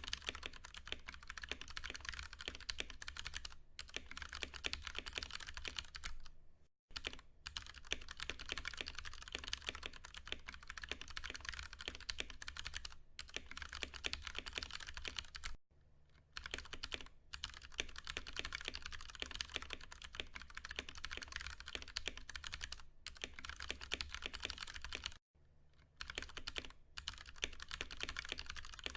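Steady, fast typing on a Ducky One 2 Mini mechanical keyboard with tactile Cherry MX Brown switches: a dense patter of key presses with a few brief pauses, about a quarter of the way in, just past halfway and near the end.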